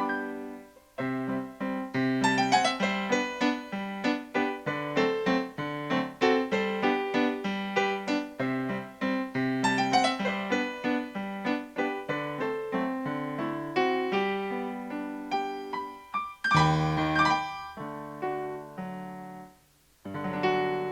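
Solo piano music: a quick melody of many struck notes over lower chords, with a short break about a second in, a loud deep chord past the middle, and a near-silent pause just before a final chord near the end.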